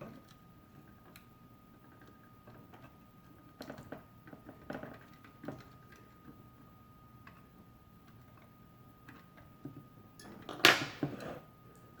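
Scattered small clicks and knocks from handling the toy bank's mechanism, with one louder clatter near the end, over a faint steady high tone.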